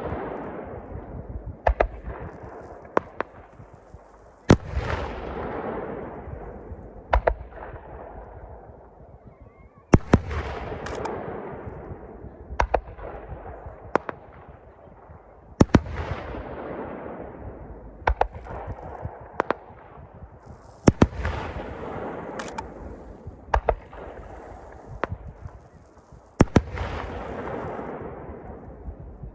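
Aerial fireworks shells bursting one after another, each sharp bang followed by a long rolling echo. In the second half, some bursts are followed by a high crackling hiss.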